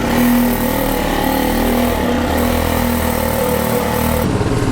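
Mini bike engine running under throttle while being ridden, its pitch wavering a little, with a broad rush of wind noise on the microphone that eases off near the end.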